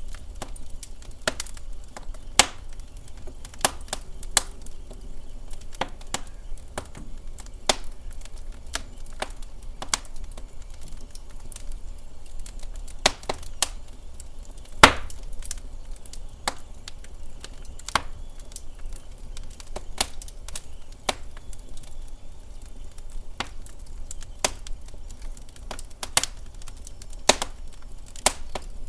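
Wood fire crackling in a fireplace: irregular sharp pops and snaps over a low steady rumble, with the loudest pop about fifteen seconds in.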